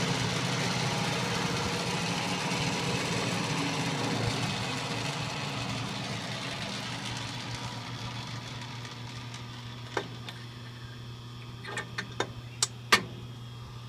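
Logan 11-inch metal lathe running, its noise fading away over several seconds as it slows, over a steady hum from the rotary phase converter that keeps going. Near the end come a few sharp clicks.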